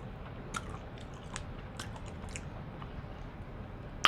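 Close-miked eating of seafood-boil crab legs and lobster tail: scattered crunchy clicks of biting and chewing, with one sharp crack near the end.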